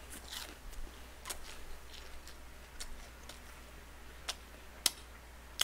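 Faint, irregular mouth clicks from chewing fried chicken close to a desk microphone, about seven spread over a few seconds, over a low steady hum.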